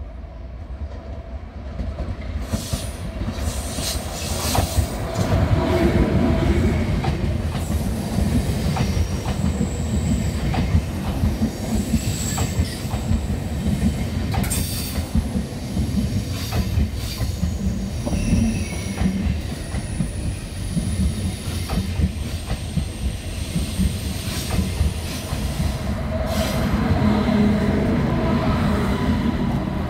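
ICE 1 high-speed train (class 401) running slowly past into the station, with a steady rumble and clatter of wheels over the rails and thin high-pitched squeals. The noise builds over the first few seconds and swells again near the end as the rear power car passes.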